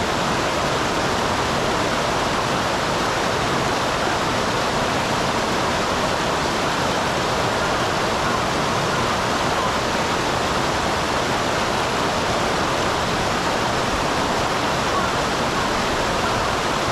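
Small waterfall on a mountain stream: water pouring and splashing in a steady, unbroken rush.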